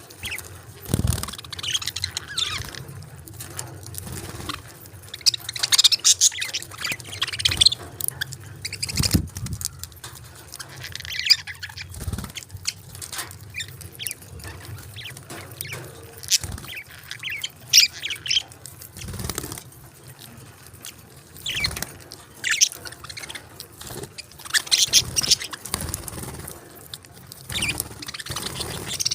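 A small group of budgerigars chirping in short, repeated bursts, with a few low thumps in between.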